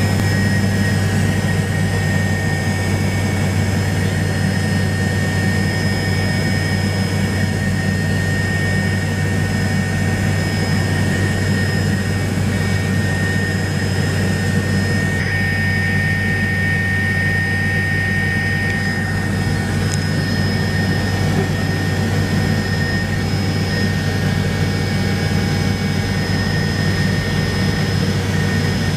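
Helicopter running in flight: a steady loud drone of rotor and engine with a thin, constant high whine over it, which grows a little stronger for a few seconds in the middle.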